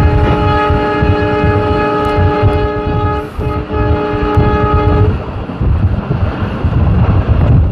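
Indian Railways express locomotive sounding its horn in one long blast, briefly broken about three seconds in and stopping about five seconds in, as the train runs through a station without stopping. A heavy, pulsing rumble from the passing train continues after the horn ends.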